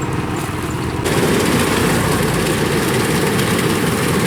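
Heavy farm machinery engine running steadily, growing louder and harsher about a second in.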